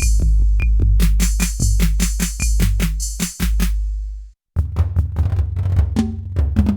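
Nord Drum 3P drum synthesizer playing a simple programmed rhythm pattern on one preset kit, with a deep booming bass drum and bright, hissy hi-hat-like hits. It stops a little past four seconds and, after a brief gap, the pattern starts again on a different preset with denser, lower, rougher-sounding drum hits.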